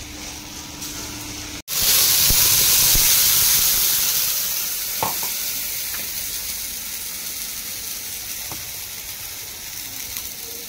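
Food frying in hot oil in a pan on a gas stove. A loud sizzle starts suddenly about two seconds in and slowly dies down, with a faint clink of a utensil partway through.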